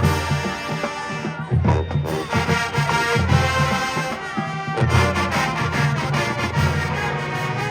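Marching band playing, with brass instruments over heavy low notes and drums.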